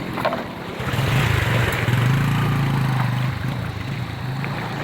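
An engine running steadily with a low hum and a hiss, swelling louder about a second in and easing off after about three seconds.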